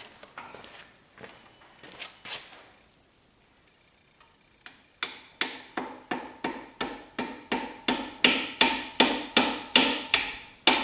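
Hammer tapping metal on metal to drive a tool onto a stuck nut on a seized small-block Chevy engine. A few light knocks come first, then after a pause a steady run of sharp, ringing strikes, about three a second, growing louder.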